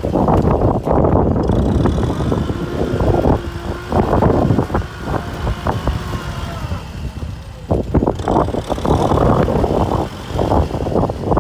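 Kubota M6040 tractor's diesel engine running, loud and uneven, with brief dips in level about four seconds in and again near eight seconds.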